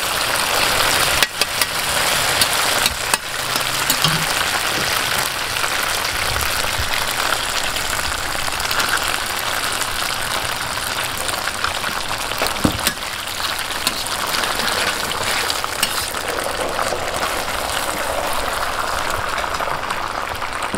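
Eggs and glass noodles sizzling on a hot flat griddle, a steady frying hiss. A metal spatula clicks and scrapes against the plate now and then.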